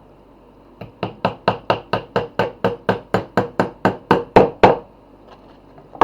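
A hammer striking wood in a quick, even run of about seventeen blows, about four a second, the last two the hardest. A single knock follows at the very end.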